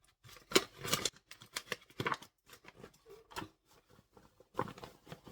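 Flour being emptied from a kitchen canister: irregular scraping, rustling and light knocks, in short uneven bursts.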